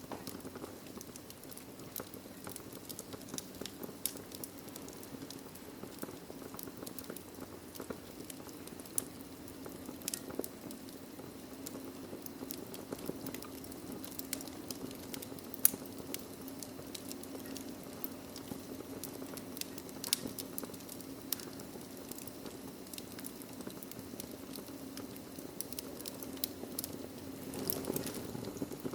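Wood fire in a fireplace crackling: frequent irregular sharp pops and snaps over a steady low rush of the flames, with one louder pop about halfway through.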